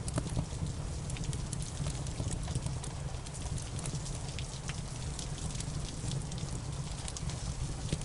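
Steady rain together with a crackling wood fire. A continuous hiss and low rumble is dotted with many irregular sharp pops and crackles.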